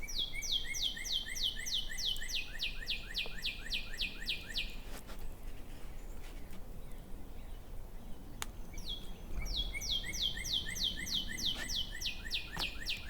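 A songbird singing two long trills, each a rapid run of about four down-slurred whistled notes a second lasting roughly five seconds. The second begins a few seconds after the first ends.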